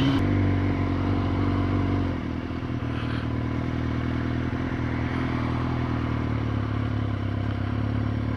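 Yamaha motorcycle engine heard from the rider's seat. The revs drop about two seconds in, then hold steady at low revs.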